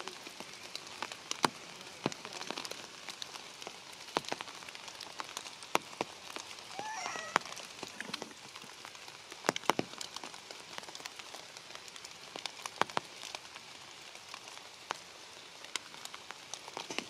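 Steady rain, with heavy drops landing on nearby leaves and branches as irregular sharp ticks. A brief wavering high call sounds about seven seconds in.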